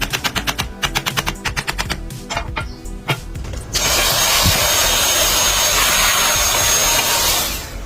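Workshop tool sounds over background music: a fast run of sharp clicks for about three and a half seconds, then a steady loud hiss, with a thin high whistle, for the rest.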